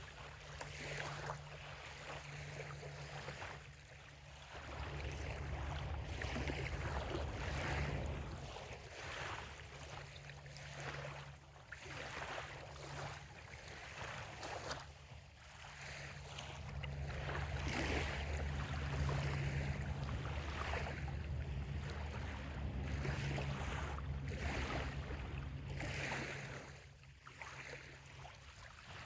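Small waves lapping on a sandy bay shore, soft washes coming every second or two. A low rumble runs underneath and swells and fades over several seconds at a time.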